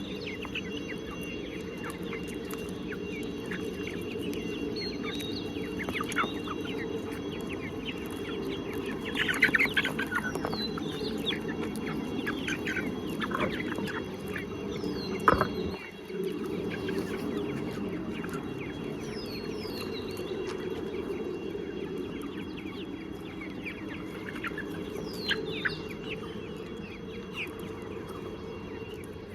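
A flock of desi chickens clucking steadily, with high, falling chirps every few seconds. A single sharp knock sounds about halfway through.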